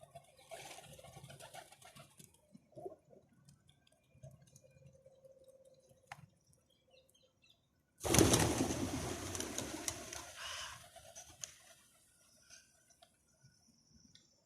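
Pigeons, with a low coo, then a sudden loud flurry of wing flapping about eight seconds in that fades over two or three seconds.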